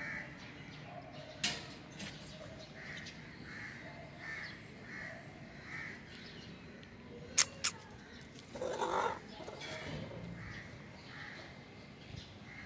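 A bird calling in two runs of short calls, about one every two-thirds of a second. There are a few sharp clicks; the loudest is a pair close together about seven and a half seconds in, followed by a short louder burst.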